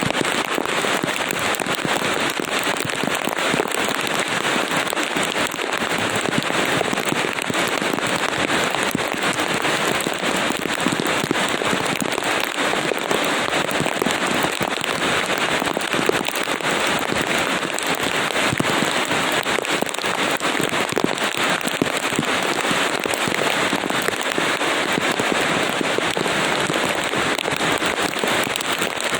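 Steady rain: an even hiss of many drops, with fine crackling patter.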